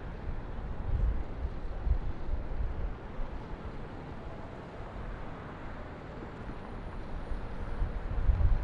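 Outdoor city-river ambience: a steady low rumble and hiss, swelling heavier in the low end about a second in and again near the end, like wind buffeting the microphone.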